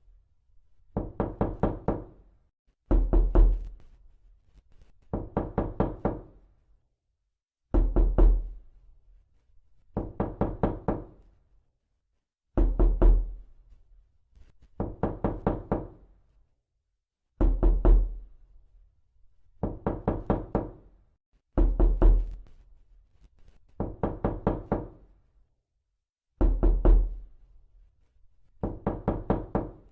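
Repeated knocking: quick groups of about five to seven hollow knocks, a fresh group about every two seconds with short pauses between.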